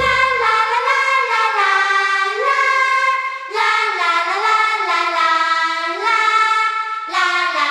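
Music: high voices singing a slow melody unaccompanied, the band dropping out just as it begins, in phrases that break about three and a half and seven seconds in.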